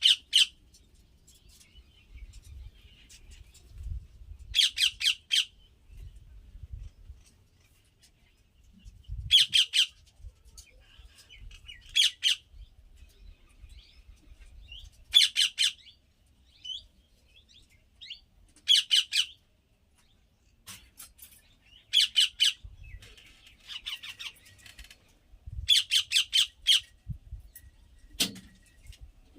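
A parrot perched in a tree giving harsh, screeching squawks in short runs of several quick notes, repeated every few seconds.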